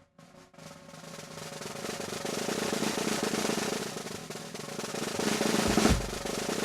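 Music led by a rapid snare drum roll that swells in loudness, building to a heavy low drum hit about six seconds in.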